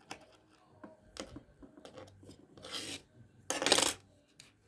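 Small parts of a ratcheting screwdriver being fiddled with by hand: scattered light clicks and short scrapes, with one louder rubbing scrape about three and a half seconds in.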